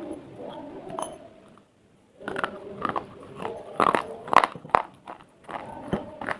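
Pieces of slate being bitten and crunched: a run of sharp cracks, loudest and most frequent between about two and five seconds in.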